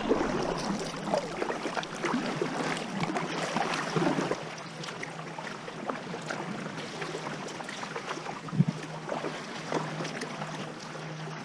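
Water sloshing and splashing around a kayak at sea, with irregular small splashes and knocks and one sharper knock past the middle.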